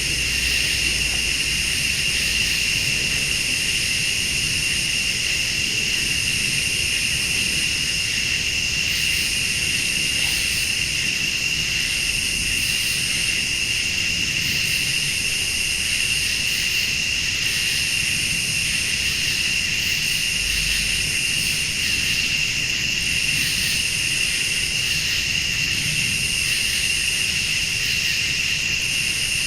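Late-summer night insect chorus: crickets trilling steadily, with a higher-pitched insect call pulsing on and off about every two seconds.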